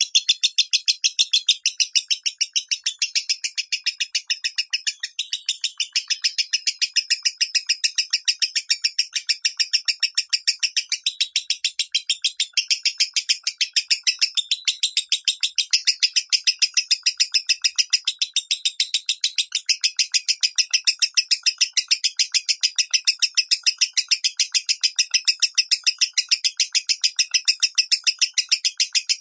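Lovebird singing in the voice called 'minor': an unbroken run of sharp, rapid chirps, about five a second.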